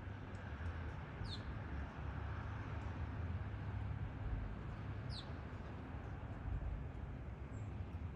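Two short, high bird calls falling in pitch, about a second in and again about five seconds in, over a steady low background rumble.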